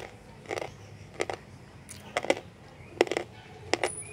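Slate pencils being bitten and chewed, with about eight sharp, dry crunches at an uneven pace, some in quick pairs.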